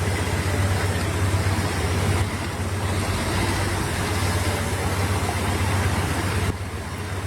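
Steady rushing noise of heavy rain and water over a continuous low engine-like rumble. The sound shifts suddenly at a cut near the end.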